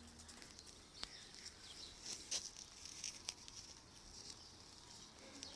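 Faint rustling and scattered small ticks of a bird being worked loose from a mist net by hand, with faint high chirps of small birds.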